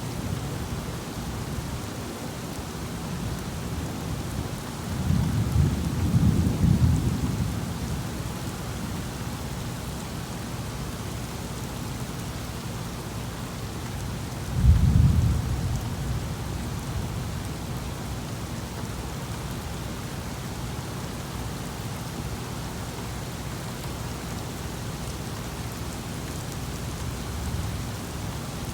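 Steady rain falling during a thunderstorm, with two rolls of thunder: one building about five seconds in and rumbling for a few seconds, and a louder one that breaks suddenly about halfway through.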